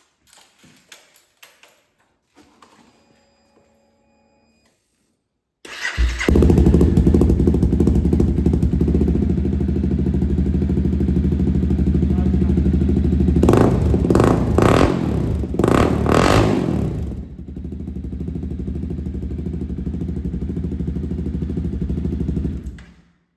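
Honda CBR300R single-cylinder engine, breathing through a LeoVince LV-10 slip-on exhaust, started about six seconds in after a few faint clicks, idling, then revved in a quick series of blips before settling back to a lower idle and being shut off near the end. Its exhaust note is throaty and loud.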